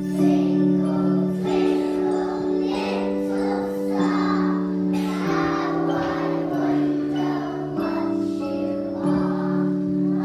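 Young children singing together in a nativity song, over a sustained keyboard accompaniment whose chords change about every second and a quarter, with jingle bells ringing.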